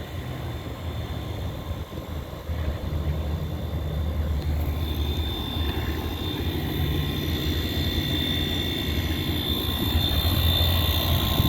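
Outdoor central air-conditioner condenser units running: a steady fan whoosh over a low compressor hum that grows louder a couple of seconds in, with a thin high whine joining about halfway through.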